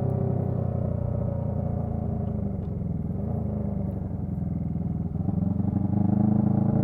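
Honda CB125T's small parallel-twin engine running through a loud muffler while riding; the engine note eases off around three to four seconds in, then rises again as the bike picks up speed near the end.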